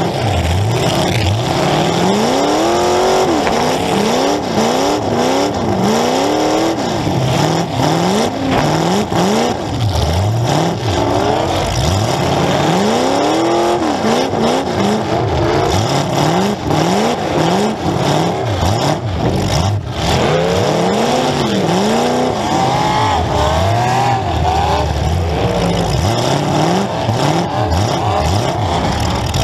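Demolition derby car engines, loud, revving up and down over and over, several engines overlapping, each rev rising and falling in about a second.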